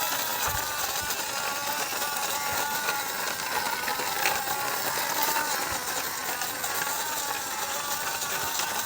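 A small motor whirring steadily with a light rattle, its pitch wavering slightly.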